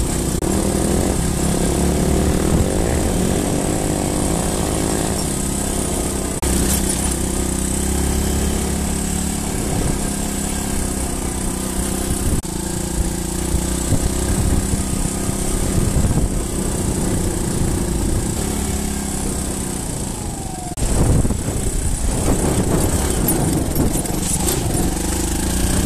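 Dirt bike engine running while riding a rough dirt trail, its pitch rising and falling with the throttle. About 21 seconds in it dips briefly, then jumps back up louder.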